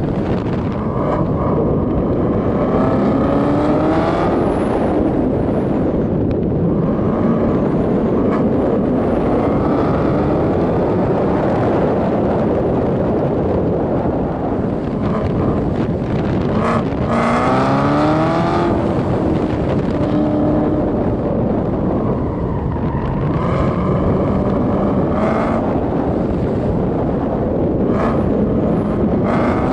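Corvette C7 Z06's supercharged 6.2-litre V8 driven hard on a race track, its pitch climbing repeatedly as it accelerates out of corners and drops between them, with a sharp fall and fresh climb about two-thirds of the way through. Heavy wind and road rush runs underneath.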